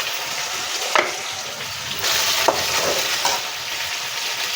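Onion, tomato and soaked chillies sizzling in hot oil in a pan while being stirred, with a few short scrapes of the spoon against the pan. The sizzle gets louder about two seconds in.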